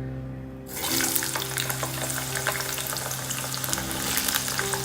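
Potato pieces going into hot oil for deep frying: a dense crackling sizzle starts suddenly under a second in and keeps on, over quiet background music.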